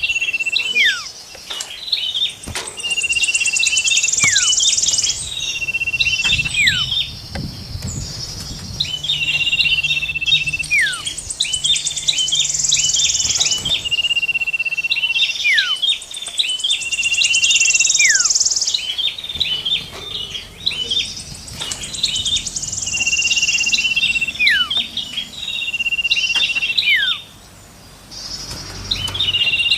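Layered songs of small songbirds used as a bird lure, mixing common iora, prenjak and cikrak kutub songs: long level whistles and sharply falling whistles, quick chip notes, and a high, rapid buzzy trill, repeating in cycles every few seconds. The sound briefly drops out near the end.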